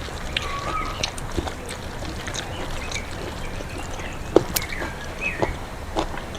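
Close-up eating sounds: scattered wet clicks and lip smacks of rice and chicken curry being eaten by hand. A few short bird chirps sound in the background, once near the start and twice about five seconds in.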